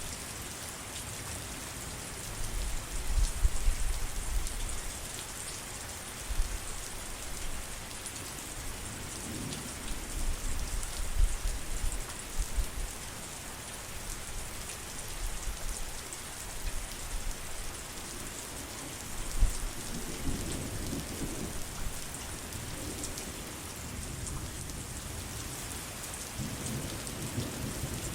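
Heavy rain falling steadily, a constant hiss, with low rolls of thunder swelling several times: about three seconds in, around ten to twelve seconds, near twenty seconds, and building again near the end.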